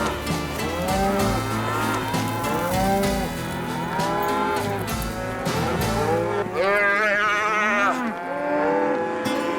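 A herd of cattle bawling, many overlapping calls that rise and fall in pitch, with a higher, wavering call about seven seconds in.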